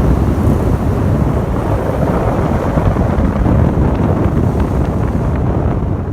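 Loud vehicle rumble mixed with wind buffeting the microphone, cutting off abruptly at the end.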